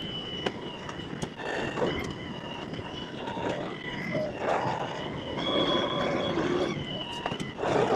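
LS XR315 compact tractor running while working its front grapple, with a steady high whine that steps up in pitch for about a second in the middle, and scattered knocks and clanks.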